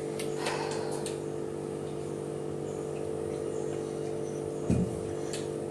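Room tone: a steady low hum, with a few faint clicks in the first second and a soft thump near the end.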